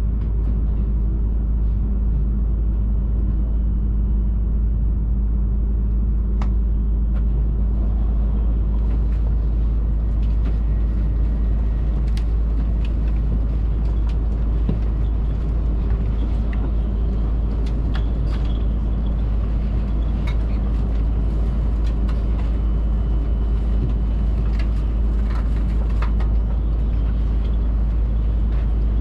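Steady in-cabin running noise of a Hayabusa Shinkansen train at speed: a constant deep rumble with a low hum and occasional faint clicks.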